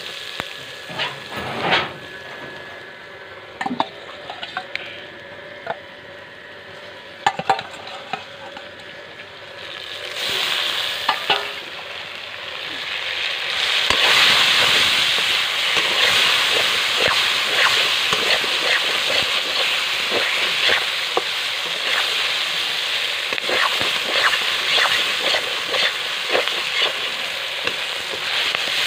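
Fish and potato pieces frying in hot oil in a metal wok, with a slotted metal spatula clinking and scraping against the pan. About halfway through, the sizzling swells loudly as the fish goes into the oil, then carries on as a steady crackling, spattering hiss.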